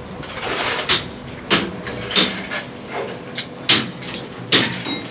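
Hammering: a series of sharp knocks, about one every three-quarters of a second, over steady background noise.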